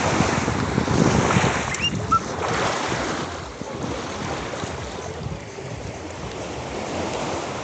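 Sea waves washing in and pulling back, with wind buffeting the microphone; the surges are strongest in the first three seconds and then settle to a softer wash.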